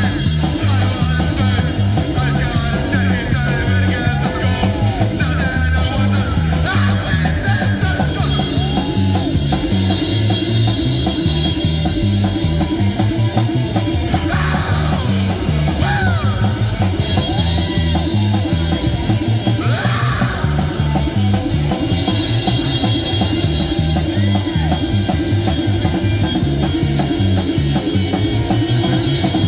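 Rock music with electric guitar and drum kit playing a steady beat.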